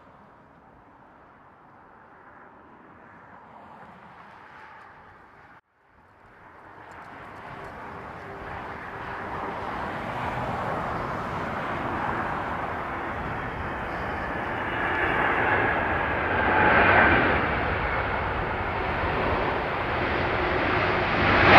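Boeing 747-400's four turbofan engines on landing approach: a jet rumble and whine that grows steadily from faint to loud as the airliner comes closer, after a brief dropout about six seconds in.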